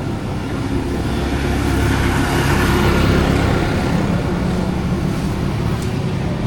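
A motor vehicle's engine passing close by over steady street traffic noise, growing louder to a peak about three seconds in and then fading.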